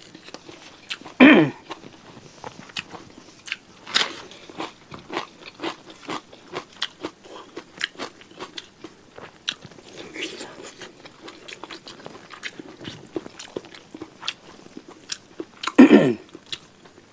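Close-miked eating sounds of a person chewing beef tongue with rice and sambal: wet chewing, lip smacks and many small crunchy clicks. Two short, loud vocal sounds break in, one about a second in and one near the end.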